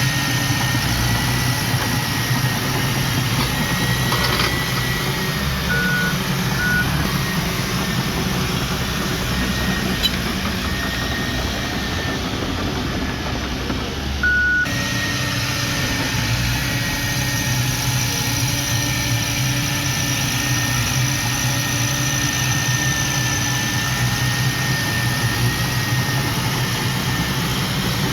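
Heavy diesel earthmoving machinery running steadily: a constant deep engine drone with a thin, steady high whine above it. A few short high beeps sound about six seconds in and again near the middle.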